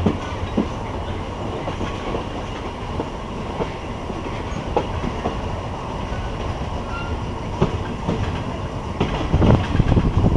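Passenger train running on jointed track: a steady rumble with scattered clacks of the wheels over rail joints, growing louder with denser knocking near the end.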